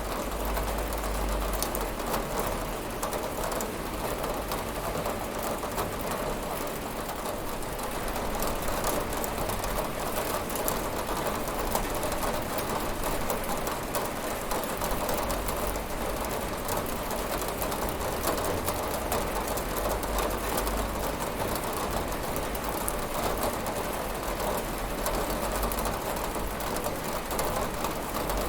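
Steady rain falling on a window pane: a dense, even hiss of countless small drops that keeps up without a break.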